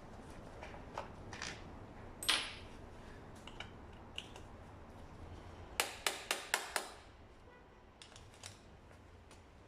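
Hand tools and metal parts clicking and clacking during scooter engine disassembly: scattered clicks, one louder clack a little over two seconds in, then a quick run of five sharp clicks about six seconds in.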